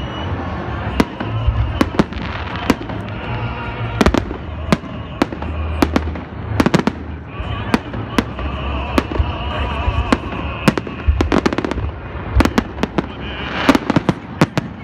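Aerial fireworks bursting overhead: a run of sharp bangs at irregular intervals, with a quick cluster of them near the end.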